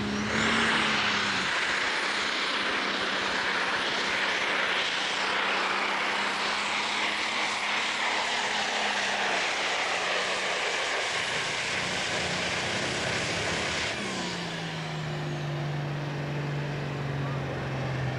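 Competition pulling tractor's engine at full power through a pull: a loud, steady blast of noise with a high whine above it. About 14 seconds in, the power cuts and the engine winds down, falling in pitch.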